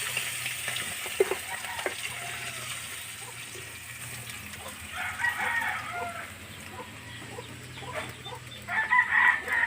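Chickens clucking and calling, with two louder bouts of calls about five seconds in and again near the end.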